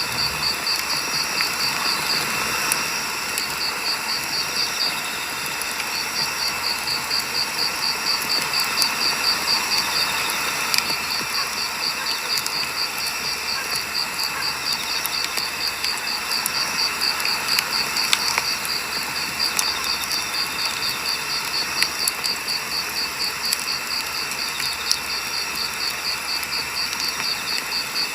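Firewood burning in a campfire, crackling and popping irregularly over a steady hiss, with a high, rapidly pulsing insect chirp running alongside that pauses briefly twice.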